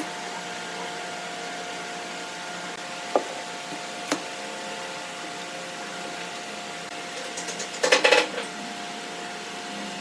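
Wood lathe running with a steady motor hum. Two sharp clicks come about three and four seconds in. About eight seconds in there is a short, loud burst of a turning tool cutting into the spinning wood with rapid chatter.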